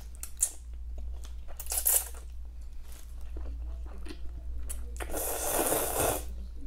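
Crunchy food being bitten and chewed close to the microphone: a run of sharp crunches and crackles, the loudest about two seconds in, then a longer spell of crunching about five seconds in.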